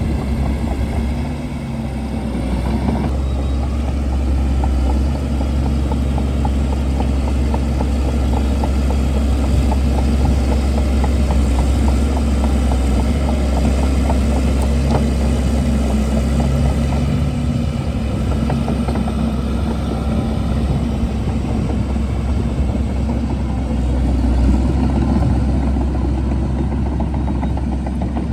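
Shantui DH17C2 bulldozer's diesel engine running steadily and loud, with a dense fast clatter over its low rumble.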